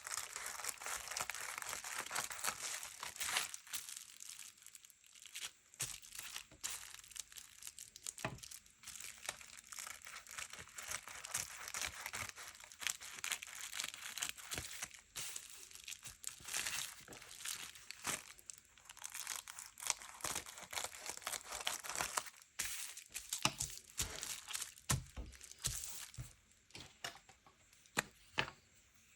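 Paper being handled, crinkled and torn: an uneven run of scratchy rustling and small clicks, with brief lulls.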